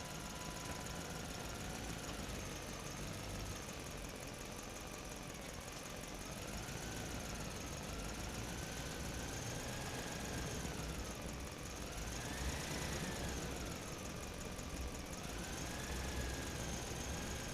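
Diesel engine of an Eicher 11.10 truck running, its speed drifting slowly up and down and highest about twelve seconds in.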